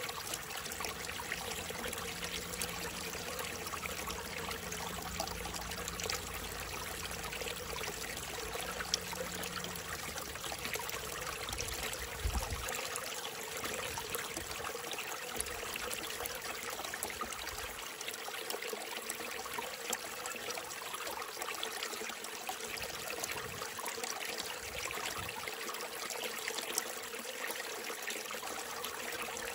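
Small mountain stream trickling steadily, fed by mist and rain.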